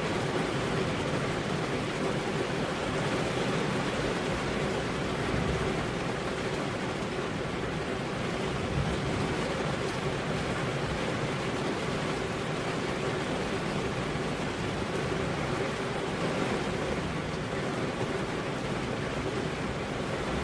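Steady rain with wind, an even unbroken hiss with no thunderclap.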